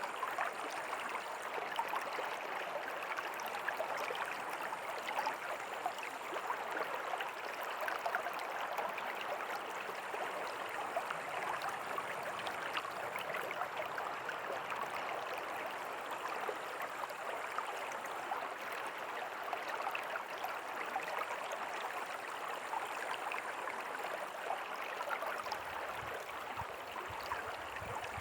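River water flowing steadily over stones, a continuous rush with fine bubbling and splashing.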